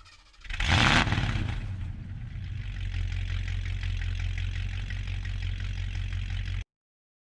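Mercedes-Benz O309D bus's diesel engine starting: a loud burst as it fires about half a second in, then settling into a steady low idle that cuts off suddenly near the end.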